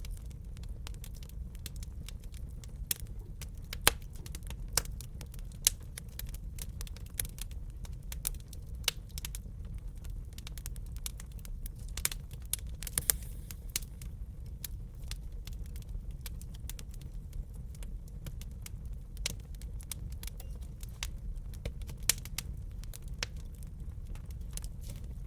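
Wood fire crackling in a fireplace: irregular sharp pops and snaps over a steady low rumble of burning, with a few louder pops scattered through.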